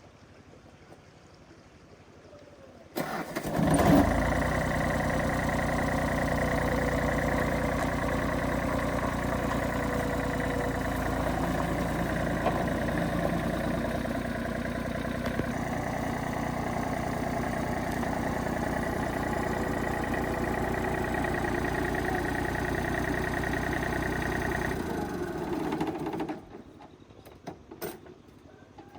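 A vehicle engine starts about three seconds in and runs steadily for about twenty seconds, then shuts off near the end.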